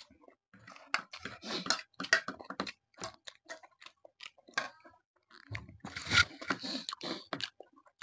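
Close-miked chewing and crunching of food: a quick, irregular crackle of bites in two bouts, with a thinner stretch around the middle.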